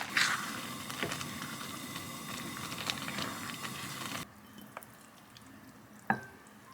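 Food sizzling and bubbling as it cooks, with small crackles, cutting off suddenly about four seconds in. Near the end, one sharp clink that rings briefly.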